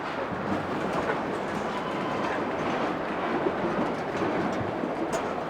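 A crowd taking their seats: a steady rustling clatter of many people shuffling and sitting down, with scattered small knocks.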